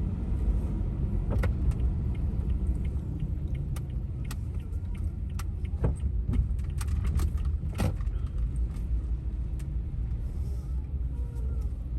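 Steady low rumble of a van on the road, heard from inside, with scattered light clicks and rattles, the sharpest about eight seconds in.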